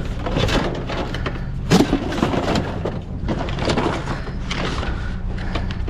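Junk being handled and shifted in a dumpster: irregular knocks and clatters, with one louder knock about 1.7 seconds in, over a steady low hum.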